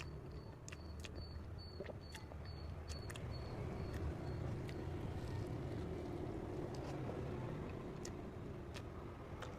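Chewing and wet mouth clicks from eating soft cream cake, over a steady low background rumble. In the first three seconds a quick run of about ten short, high chirps sounds in the background.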